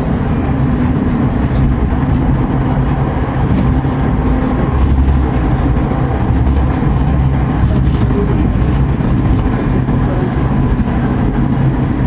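Tram in motion, heard from inside the car: a steady low rumble of wheels on the rails and running gear, with light rattles and ticks over it.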